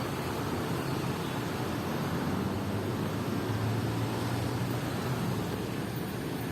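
Steady low rumble with an even hiss over it: continuous background noise with no distinct events.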